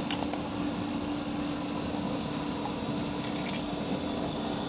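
Steady background hum with a sharp click just after the start and a few light clicks about three and a half seconds in, as small pump seal and impeller parts are handled.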